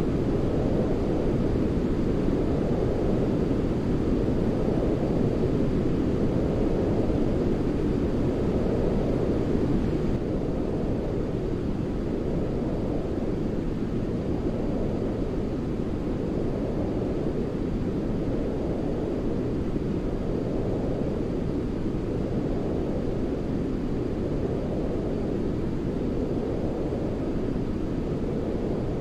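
A continuous deep, rumbling white-noise track for lulling a baby to sleep. It slowly swells and fades every few seconds, and it gets slightly quieter about ten seconds in.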